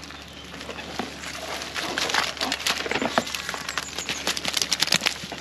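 Dense, irregular clicking and scratching of hard shells, growing busier about a second and a half in: a catch of live yabbies clattering against each other as they are handled.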